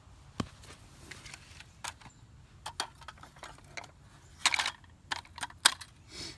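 Small metal objects clinking and clattering as they are handled, a series of separate sharp clicks with a louder burst of rattling about four and a half seconds in.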